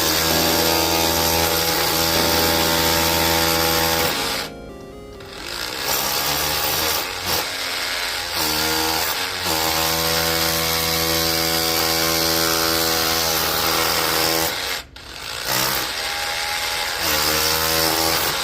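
Cordless electric jackhammer hammering into rock in long steady bursts, stopping briefly about four and a half seconds in and again near fifteen seconds.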